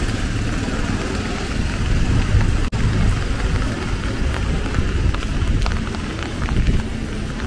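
Steady rain, an even hiss over a strong low rumble, with scattered drip ticks in the second half. The sound drops out for an instant a little under three seconds in.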